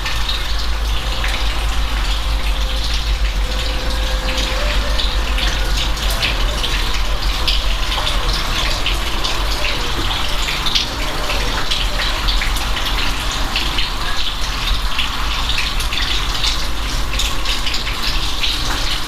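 Steady rain: a dense patter of separate drops over a continuous rush of water.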